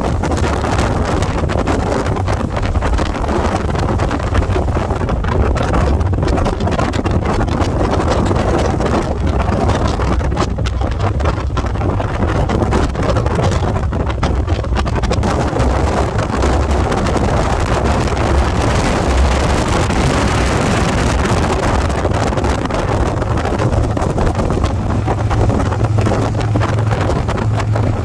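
A motorcycle engine running while riding, with wind noise on the microphone.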